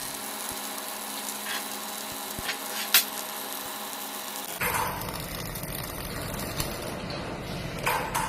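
Semi-automatic (MIG) welding on stainless steel: a steady buzzing hiss, with a sharp click about three seconds in. The sound turns rougher and broader at about four and a half seconds.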